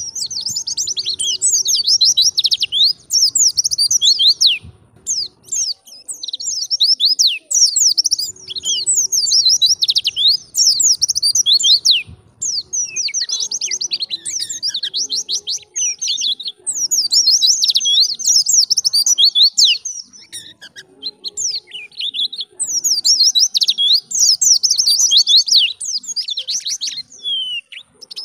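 White-eye (pleci) singing: long, fast twittering phrases of rapid high, sliding notes, each a few seconds long, separated by short pauses.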